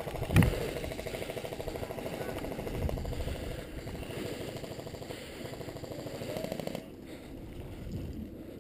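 Airsoft electric gun (AEG) firing a long full-auto burst, a rapid even rattle that stops suddenly near the end, after a single loud knock less than half a second in.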